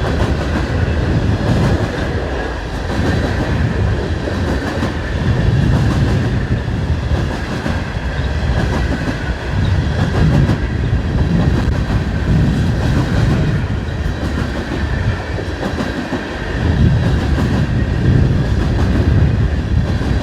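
Freight train cars rolling past close by, a steady rumble of steel wheels on rail that swells every few seconds as the wheel sets pass.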